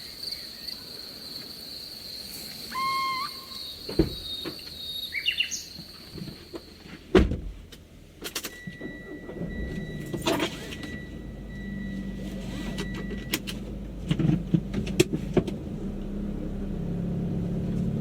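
Crickets trilling steadily with two short calls from another night animal. About seven seconds in the trill stops, and scattered clicks, a thin steady whistle-like tone and a growing low rumble follow.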